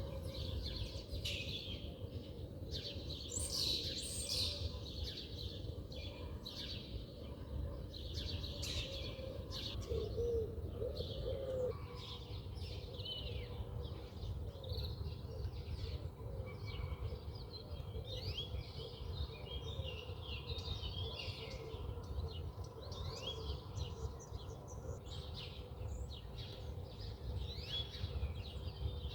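Several wild birds chirping and calling with short high chirps throughout, over a steady low rumble; a lower warbling call comes about ten seconds in.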